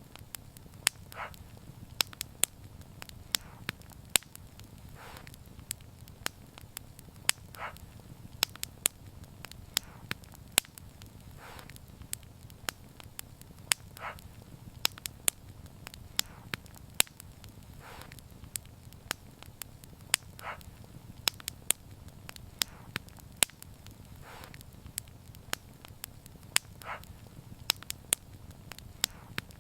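Wood fire crackling steadily: many sharp pops and snaps over a low, even rumble of flame, with a soft hissing puff about every two seconds.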